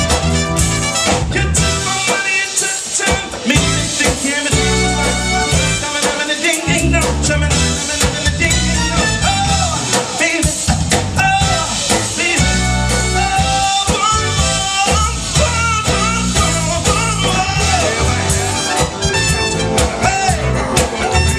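Live soul band playing, with a steady bass line and singing over the band.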